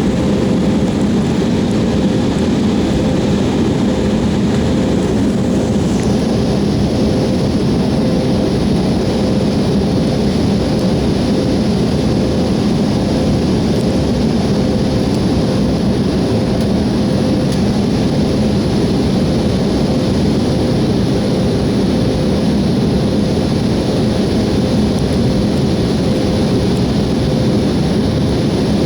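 Airliner cabin noise in flight: a steady, loud rush of engines and airflow with a steady hum underneath. The high hiss shifts slightly about six seconds in.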